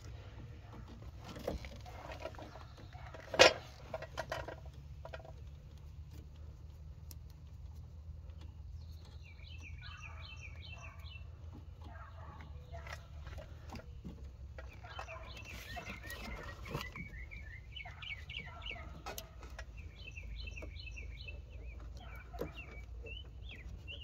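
Birds chirping in quick repeated notes from about nine seconds in, over a steady low rumble. A single sharp click about three seconds in is the loudest sound.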